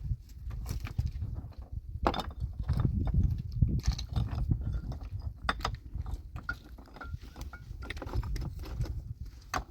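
Irregular sharp knocks and clicks, several a second in places, over a low rumble.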